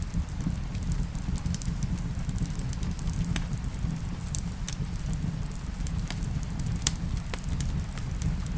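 Wood fire crackling in a fireplace, with scattered sharp pops over a steady low rumble. One pop a little before seven seconds in stands out as the loudest.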